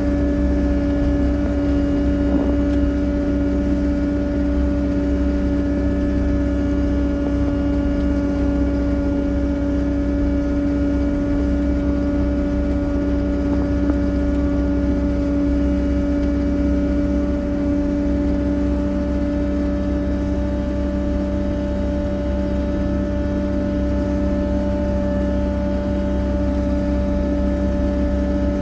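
An engine running steadily at a constant speed, with a low rumble and a fixed hum.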